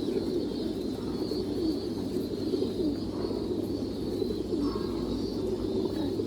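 Many domestic pigeons cooing at once, overlapping into a continuous low, steady din.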